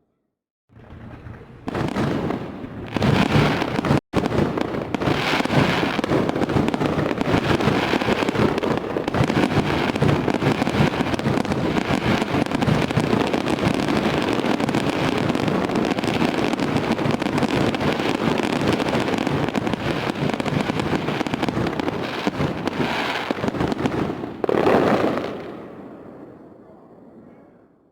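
Fireworks going off in a dense, continuous barrage of bangs and crackles. It swells in over the first few seconds, has a louder burst near the end, and then fades out to silence.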